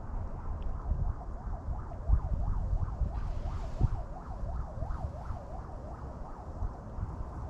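Wind buffeting the microphone in uneven gusts. Through the middle a fainter tone warbles up and down about twice a second.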